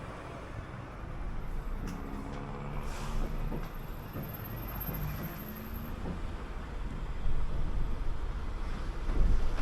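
City bus on the move: engine running with a low road rumble and a few knocks and rattles. A steady engine tone holds for a few seconds in the middle, and the rumble grows louder near the end.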